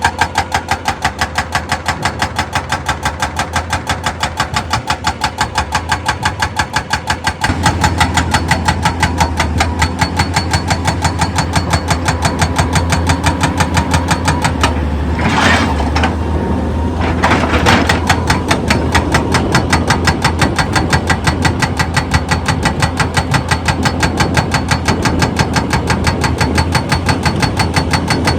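Heavy machinery running, with a fast, even pulse about three to four times a second. The low rumble grows heavier about seven seconds in, and there are two brief louder bursts around the middle.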